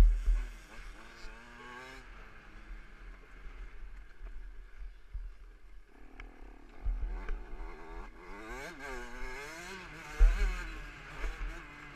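KTM 65 SX two-stroke single-cylinder dirt bike engine revving up and down repeatedly as it is ridden. It drops back quieter for a few seconds early on, then picks up again. Heavy low thumps break in at the start, about seven seconds in and just after ten seconds.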